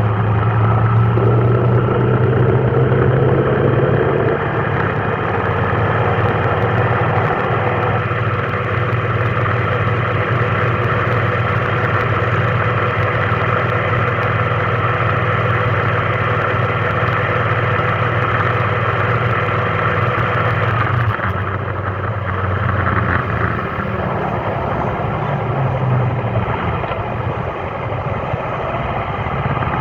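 A vehicle's engine running steadily with a low hum and road noise; the hum changes and drops somewhat about two-thirds of the way through.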